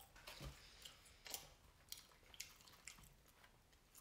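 Faint chewing of French fries, with about five short mouth clicks spread through it.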